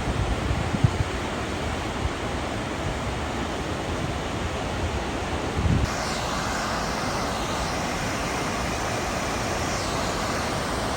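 Steady rushing of a waterfall, with wind buffeting the microphone in the first half. About halfway through, the rush abruptly turns fuller and brighter.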